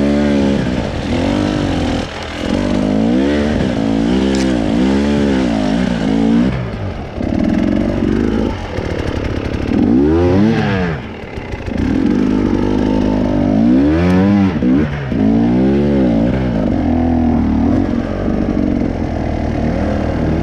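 Off-road motorcycle engine revved hard over and over, its pitch climbing and dropping every second or two with brief drops in throttle, as when picking a way through rocky ground.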